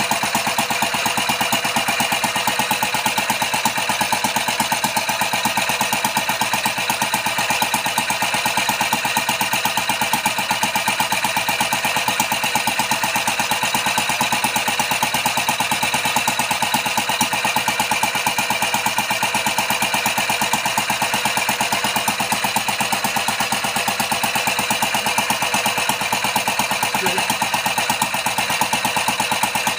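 Homemade engine built from beer cans running steadily, with a fast, even firing rhythm that holds the same speed and level throughout.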